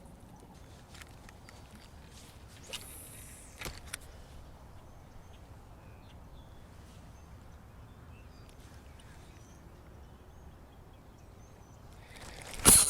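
Quiet open-air ambience with faint, brief bird chirps and a few light clicks, then a sudden loud burst of noise just before the end.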